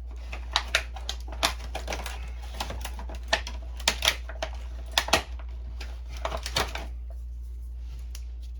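Irregular sharp clicks and taps of small plastic parts being handled, about a dozen over six seconds, the loudest about five seconds in, then they stop. A steady low hum runs underneath.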